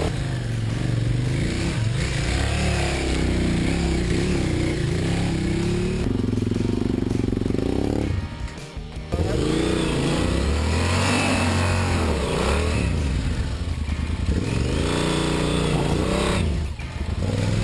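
Off-road motorcycle engines revving up and down as the bikes ride a rough trail, with background music mixed in. The sound dips briefly twice, about eight seconds in and near the end.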